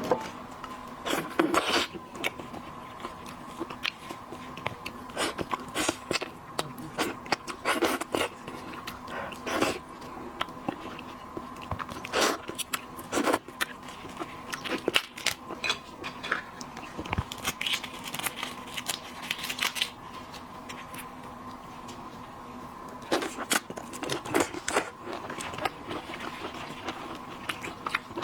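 Seafood being eaten: irregular crunching, biting and chewing sounds with scattered sharp clicks, over a faint steady hum.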